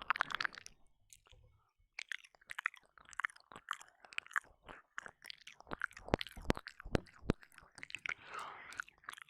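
Close, wet mouth sounds of ear licking and ear eating on a binaural microphone: rapid lip smacks, tongue clicks and slurps, with a short pause about a second in and a longer slurping stretch near the end.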